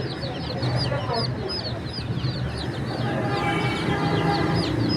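A crowd of baby chickens peeping nonstop: many short, high chirps overlapping, each dropping in pitch. A brief held call with a steady pitch joins about three seconds in.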